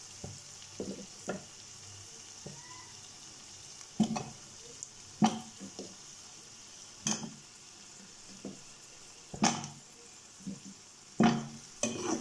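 Onion and pea masala sizzling steadily in a frying pan as potato chunks are dropped in, with a series of knocks and clatters from the potatoes landing and a steel spatula striking the pan. The knocks come about every second or two and bunch together near the end.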